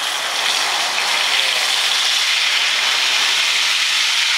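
Fish frying in hot oil in a pan: a steady, loud sizzle that swells a little in the first second.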